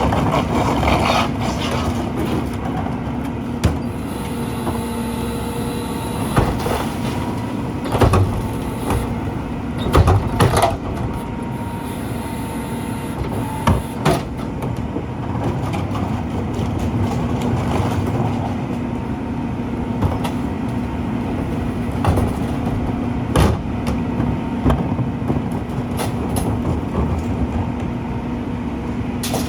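Mack LEU E-Z Pack rear-loader garbage truck running with a steady engine hum, with many clanks and bangs scattered throughout and a faint whine from about five to thirteen seconds in.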